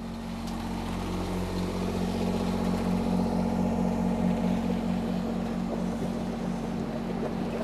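Engine running steadily aboard a boat: a low, even hum with a throb pulsing about four times a second.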